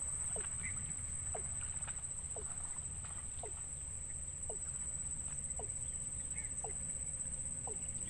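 Birds peeping: short, downward-sliding notes repeated about once a second, over a steady high-pitched whine and a low rumble.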